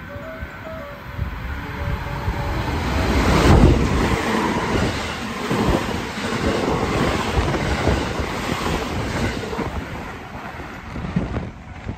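JR West 225 series 5100-subseries eight-car electric train running through the station at speed without stopping. A rush of wheel and running noise builds to a peak about three and a half seconds in as the front goes by, then a steady run of wheel clacks over the rail joints as the cars pass, fading near the end.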